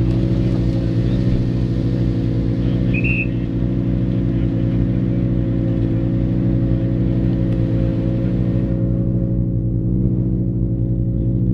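Rally car engines idling steadily, with a short high chirp about three seconds in.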